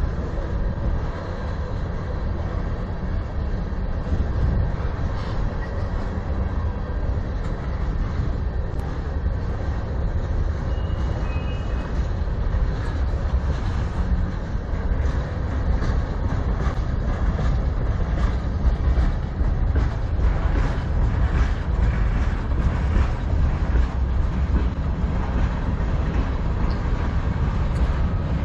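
Freight train cars rolling past on the rails: a steady low rumble of tank cars and other freight cars, with sharper wheel clicks and clanks coming more often in the last third.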